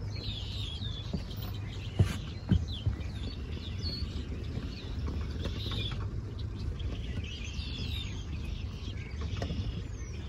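Small birds chirping and calling repeatedly over a steady low rumble, with two sharp knocks about two seconds in.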